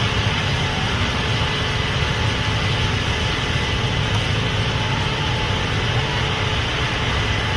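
Case IH Axial-Flow 8250 combine running steadily under load while harvesting corn: a constant low engine drone with a hiss of threshing and fans over it.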